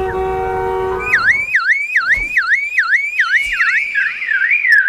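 Superb lyrebird mimicking a car alarm. It holds a steady tone for about a second, then gives a repeated rising-and-falling wail of roughly two sweeps a second, which turns into a quicker warble near the end.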